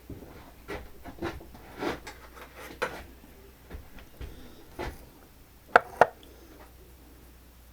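Hand work at a milling machine: scattered light knocks and rubbing of tools and parts being handled, with two sharp clicks close together about six seconds in. No spindle or motor is running.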